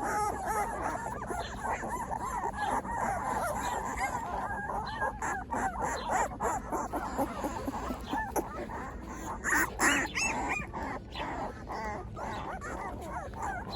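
Litter of newborn Newfoundland puppies squeaking and whimpering, many small overlapping wavering cries at once, a little louder about ten seconds in.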